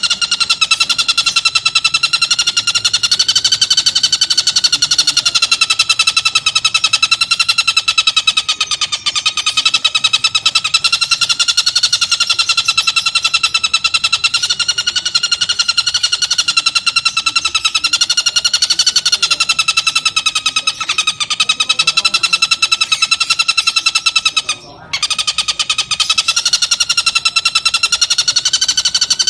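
Tengkek buto kingfisher giving a harsh, continuous rattling call made of very rapid pulses, its pitch wavering slightly, with one brief break near the end.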